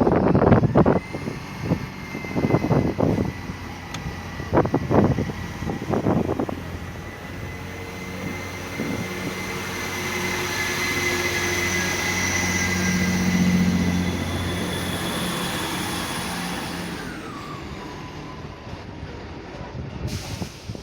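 Class 158 diesel multiple unit pulling out of the station. Its engine note rises, swells to a peak about 13 seconds in, then fades as it draws away, with a steady high whine over it. Several sharp thumps come in the first six seconds.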